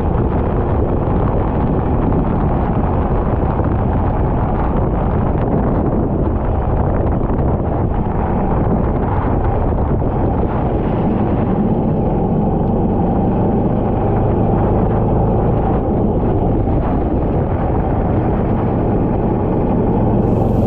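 Racing kart engine running on track, heard onboard with heavy wind buffeting on the microphone; a steadier engine note comes through from about halfway.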